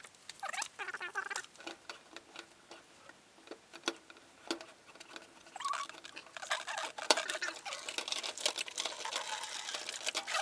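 Residual water draining from a freshly cut water supply pipe, with irregular drips and splashes that build into a steadier trickle in the second half.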